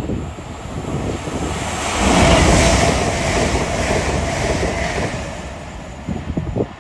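A passenger train passing the platform at speed: a rush of air and wheels on rail that swells about two seconds in, holds, then fades away, with wind buffeting the microphone.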